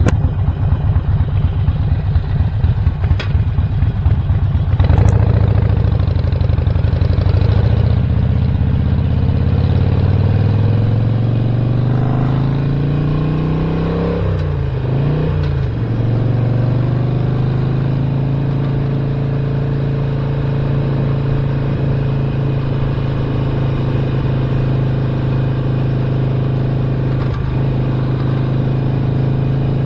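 2017 Harley-Davidson Roadster's 1200 cc V-twin with a Stage 1 upgrade, running with an uneven, pulsing beat for the first few seconds, then accelerating with its pitch rising. The pitch drops briefly and recovers about halfway through, then the engine holds a steady note at cruising speed.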